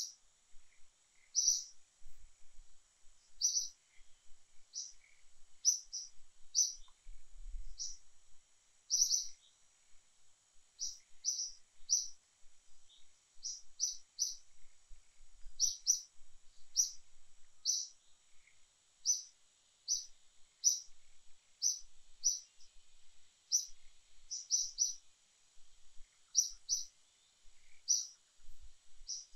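A bird chirping over and over in short high notes, mostly singly and sometimes in quick pairs, about once a second. A faint steady high-pitched drone runs underneath.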